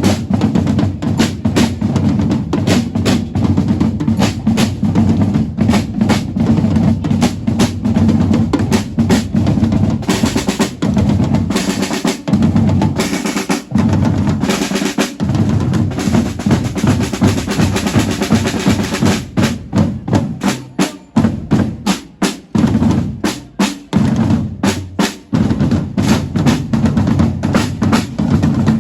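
Drumming: snare and bass drums beaten in a fast, dense rhythm with rolls.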